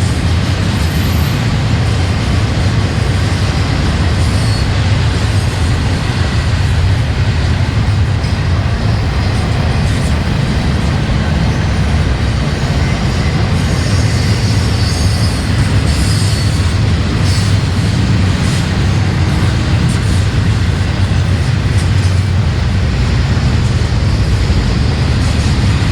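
Freight train rolling past with a steady, loud rumble of wheels on rail, and a few faint high clicks about halfway through.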